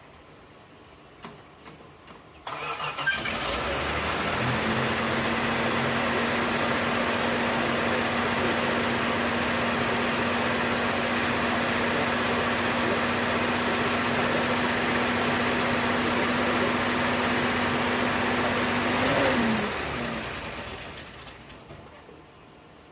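1975 Plymouth Duster's engine started: after a few faint clicks it turns over about two and a half seconds in and runs loudly and steadily with a constant whine. Near the end it shuts off, the whine falling in pitch as it dies away.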